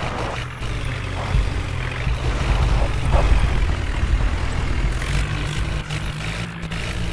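Heavy diesel engine of a tractor or backhoe loader running steadily, with a low hum. It swells a little in the middle.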